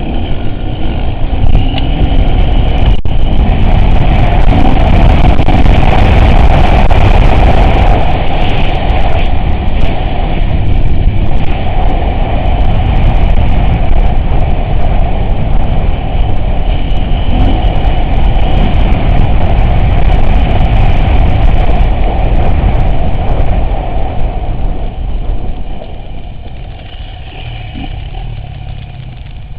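Off-road vehicle driving, its engine running loudly with a dense rumble and scattered rattles and clicks. It gets quieter about four seconds before the end.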